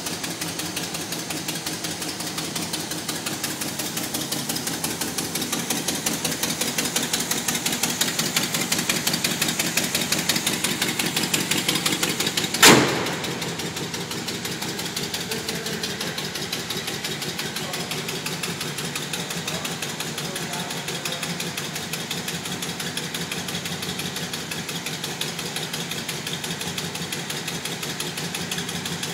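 Classic Pontiac GTO's V8 idling steadily with a fast, even pulse. About halfway through comes a single loud bang: the hood being slammed shut.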